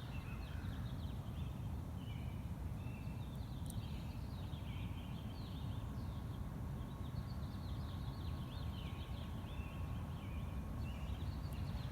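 A chorus of small birds chirping at dawn: many short, overlapping chirps and calls over a steady low rumble.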